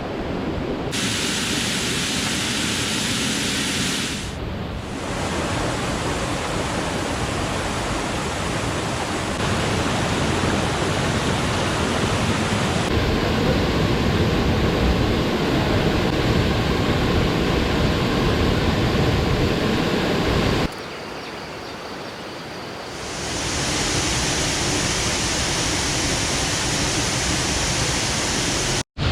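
Waterfall's rushing water, a steady noise that changes character abruptly several times and drops quieter for a couple of seconds about three quarters of the way through.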